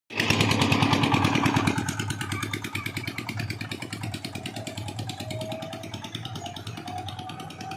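Truck engine running fast as it passes, loudest in the first couple of seconds and then fading as it moves away.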